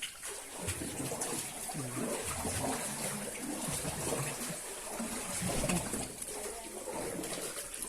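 Running water trickling and splashing.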